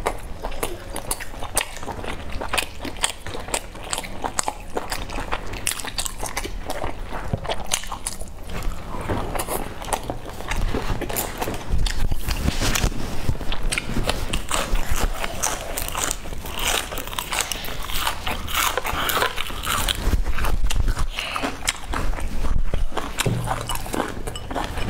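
Close-miked chewing of soft boiled dumplings: a steady stream of wet mouth clicks and smacks, louder in stretches about halfway through and again near the end.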